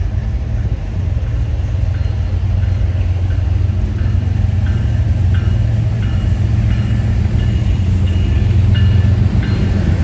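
Diesel locomotive approaching on the near track, its engine making a steady low rumble that builds. A bell rings about every 0.7 s from about two seconds in, growing louder.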